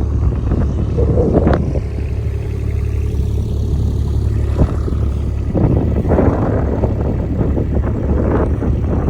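Wind buffeting the microphone: a steady low rumble that swells and eases with the gusts.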